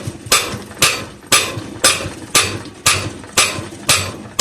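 Hammer tapping steadily on the bare end of a Kohler opposed-twin engine's crankshaft, about two sharp metallic blows a second, each ringing briefly. The blows are driving the crank out of its tight timing gear.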